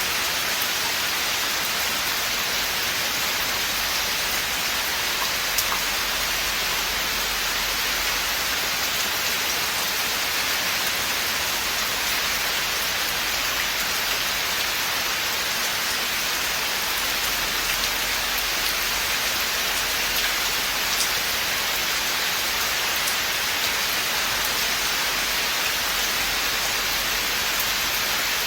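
Steady rain falling in a forest, an even hiss of drops with the odd sharper drop tick.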